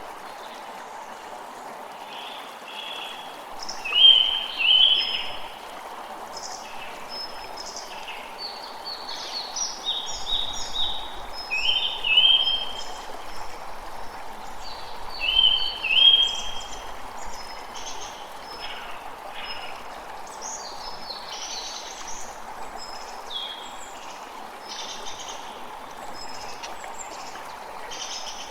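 A creek running steadily, with small birds calling over it in short, repeated high notes. The loudest calls come in pairs at several points, and there is a stretch of busier chatter past the middle.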